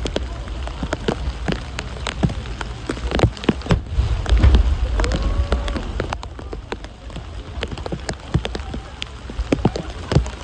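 Fireworks crackling: a dense, irregular run of sharp pops and snaps over a low rumble.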